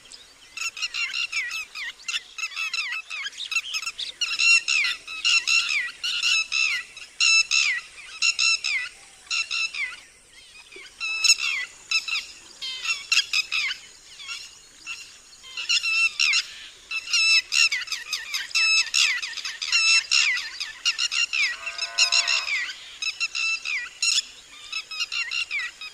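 Red-wattled lapwing giving its loud alarm call: sharp, falling notes repeated in quick series, with short breaks about ten and fourteen seconds in. Near the end a lower, falling call cuts in briefly.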